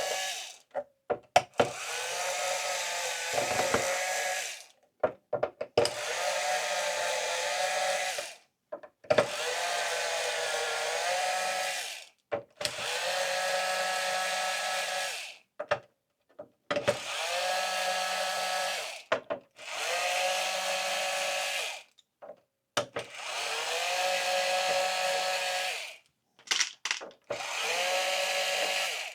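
Cordless electric screwdriver backing out a row of small silver screws one after another: about eight short runs of motor whine, each rising in pitch as the motor spins up, with small clicks from the bit and screws in the gaps between.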